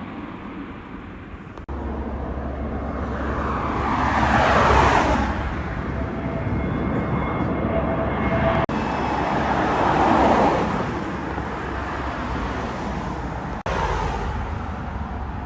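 Vehicles passing close by, twice, each with a falling pitch as it goes past, over a steady low rumble. The sound changes abruptly three times where clips are cut together.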